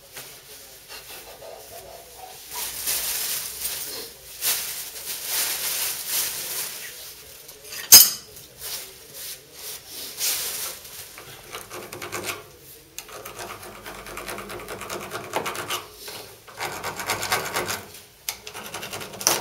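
Abrasive rubbing and rasping strokes on a water pipe, irregular and repeated, as when sanding or filing the pipe clean. One sharp click or knock about eight seconds in.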